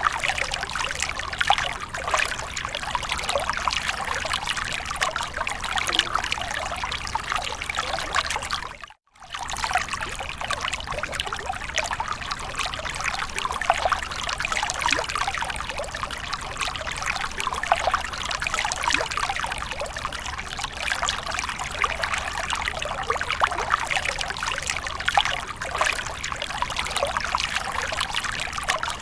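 Water splashing and trickling steadily, a dense continuous patter. It cuts out completely for a moment about nine seconds in, then resumes unchanged.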